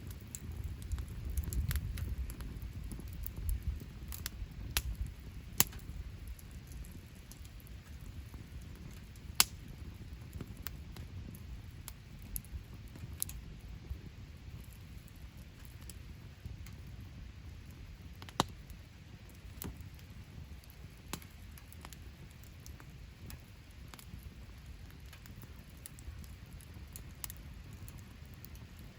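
Wood campfire crackling, with scattered sharp pops over a low, steady rumble that is strongest in the first few seconds.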